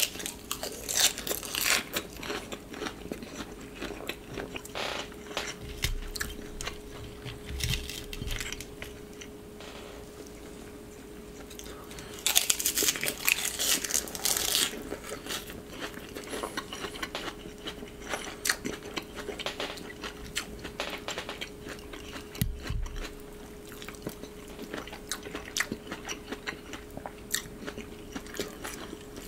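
Close-miked chewing of crisp lettuce, irregular wet crunches and bites, with a dense, louder run of crunching from about twelve to fifteen seconds in. A faint steady hum sits underneath.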